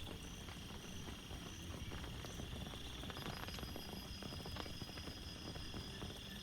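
Rain falling steadily, with irregular drops tapping close by, under a steady high-pitched trill.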